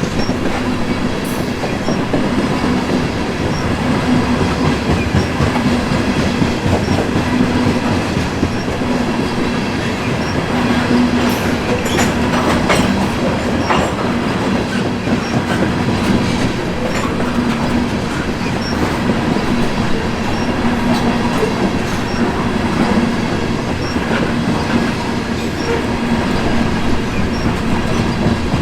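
Freight cars of a grain train rolling past: a steady rumble with steel wheels clicking rhythmically over the rail joints.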